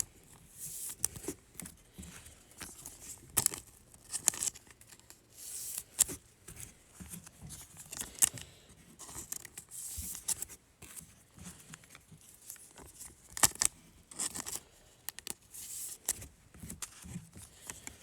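Trading cards being slid into thin plastic penny sleeves and handled: irregular swishes and crinkles of plastic with small clicks and taps of card edges.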